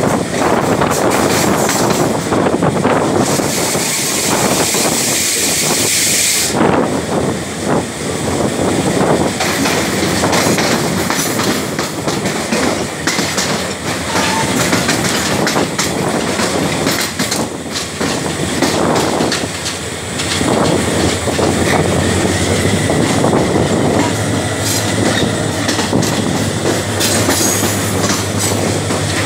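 Locomotive-hauled passenger train running at speed, heard from an open window near the locomotive: wheels clattering on the rails with rushing wind. A brighter hiss comes in a few seconds in, and a low steady hum joins about two-thirds of the way through.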